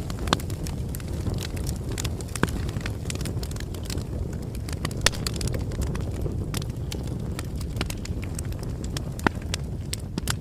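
Wood fire burning: a steady low rumble of flames with frequent sharp crackles and pops, a few of them louder.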